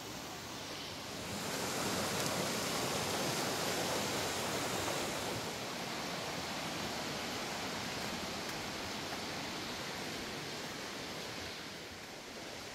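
Steady rush of river water, swelling about a second and a half in and easing a little after about five seconds.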